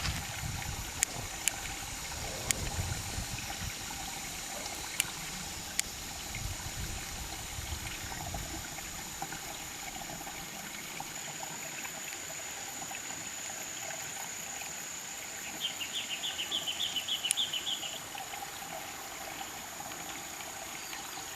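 Outdoor ambience of steady high insect droning with water trickling, broken by a few sharp clicks in the first six seconds and a quick run of rattling chirps about sixteen seconds in.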